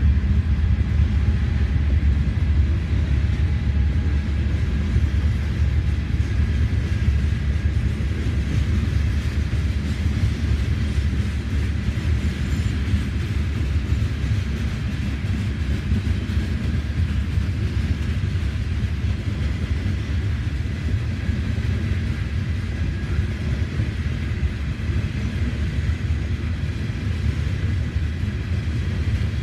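Freight train's coal hopper cars rolling past: a steady rumble of steel wheels on the rails that holds level throughout.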